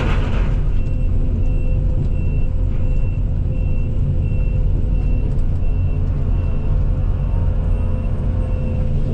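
Case CX220E excavator's diesel engine running steadily, with a short hiss right at the start. A high electronic beep repeats evenly, a little more than once a second, through most of it.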